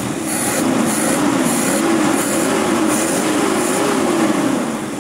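Inline four-cylinder carburetted petrol engine running with its valve cover off, the valve train clattering openly, revved up and down a few times as a check after a tappet (valve clearance) adjustment.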